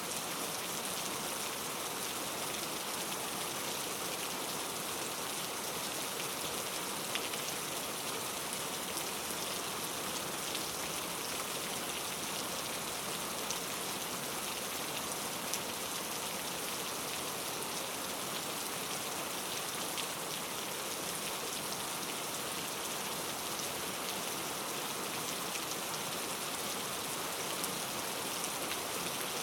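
Steady rain falling on a surface, with scattered individual drops ticking through the even hiss.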